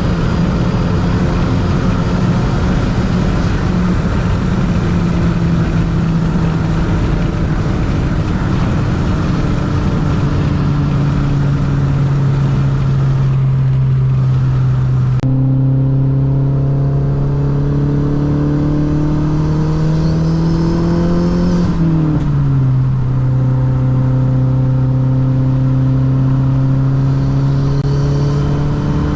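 Mazdaspeed3's turbocharged 2.3-litre four-cylinder with a straight-piped exhaust, running at a steady cruise. The engine note climbs slowly, then drops sharply about three-quarters of the way through as the revs fall, then holds steady again.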